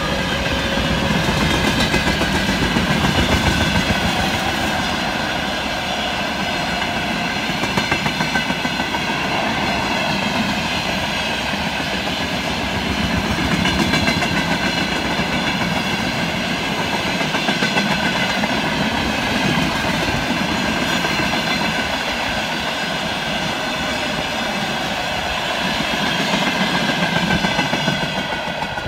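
Freight train of empty oil tank wagons rolling past close by at speed: loud, steady wheel-on-rail noise from the passing wagons.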